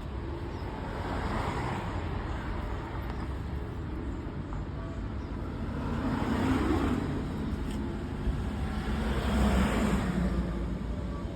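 Street traffic: a steady low rumble with vehicles passing by, three swelling up and fading in turn, the last two the loudest.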